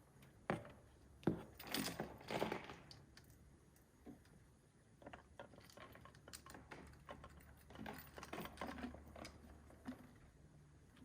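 Irregular light clicks and knocks, with a cluster of louder knocks and rubbing about one to three seconds in and another around eight to nine seconds.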